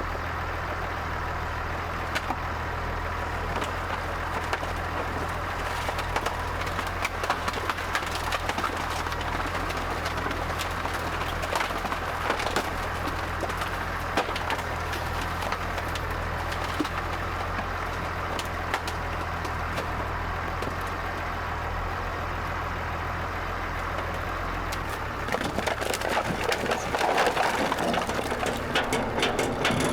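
Tractor engine running steadily under frequent sharp cracking and crunching of sawmill offcuts and frozen ground being driven over. About 25 seconds in the engine's low hum changes and the cracking becomes denser.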